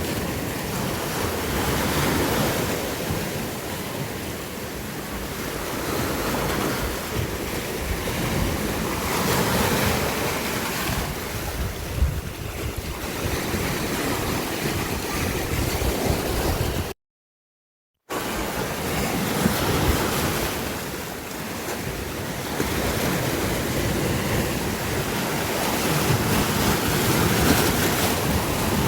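Sea waves washing in and drawing back, the rush swelling and fading every few seconds. About two-thirds of the way through the sound cuts out completely for about a second, then resumes.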